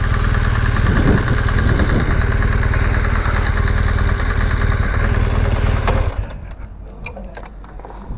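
BMW GS Adventure motorcycle engine idling steadily, then switched off about six seconds in, the sound cutting off suddenly; a few faint clicks follow.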